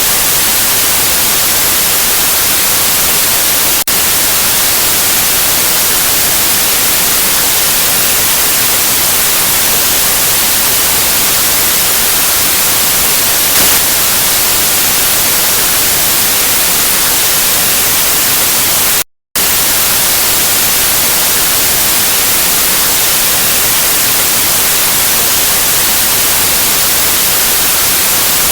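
Steady, loud white noise, an even hiss across all pitches. It cuts out completely for a split second about two-thirds of the way through, then resumes unchanged.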